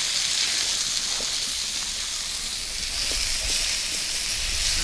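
A pan of onions, bacon, sliced beef sausages, potatoes and mushrooms frying, sizzling steadily, with a few faint ticks.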